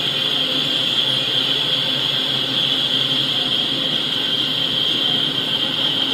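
Steady rolling noise of a double-stack intermodal freight train passing, a continuous rumble with a hissing upper band, heard through a screen's speaker from a live train webcam.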